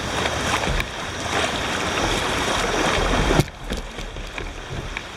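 Shallow river rapids rushing around a kayak as it runs through them, a loud steady rush that drops off suddenly about three and a half seconds in.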